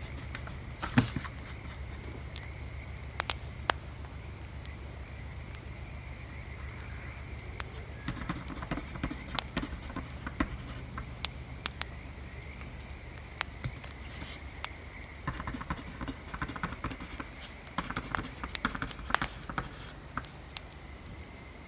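Wood fire crackling with scattered sharp pops over a low steady rumble. Bursts of pencil or pen scratching on paper come in now and then.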